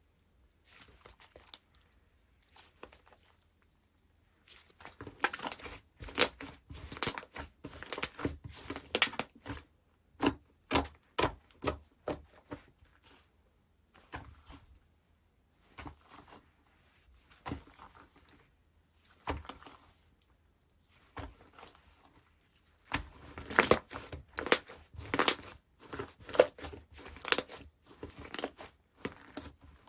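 Hands pressing, stretching and folding slime: irregular crackling, popping and squelching. Two dense stretches of crackles, one early and one near the end, are separated by a few sharp pops and then quieter, sparser pokes.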